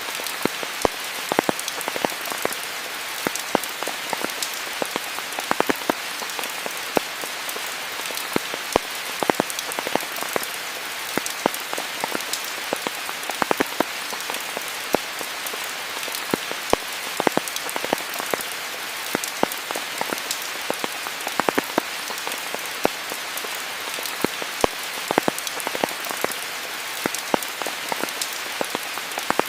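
Steady rain falling, an even hiss with many close, sharp drop hits standing out throughout.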